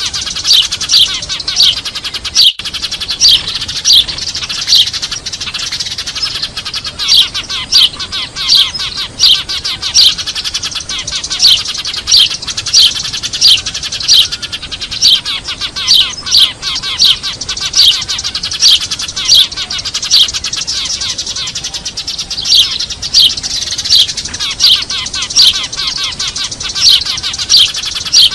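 A flock of Eurasian tree sparrows chirping noisily: a dense, constant chatter with loud, sharp chirps about twice a second in long runs. It is a sparrow lure call of the kind played to draw wild birds in.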